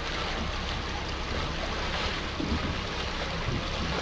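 Steady wind buffeting the microphone, over the wash of water around a boat on open water.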